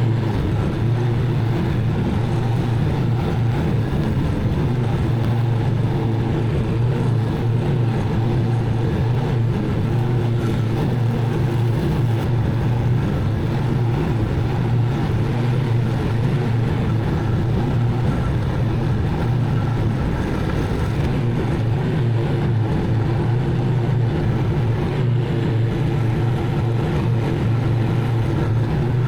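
Zero-turn mower engine running steadily at a constant pitch while mowing.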